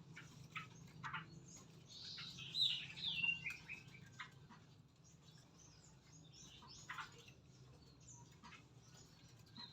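Small birds chirping: scattered short, sharp chirps, with a couple of quick falling whistles about two to three seconds in, over a faint low hum.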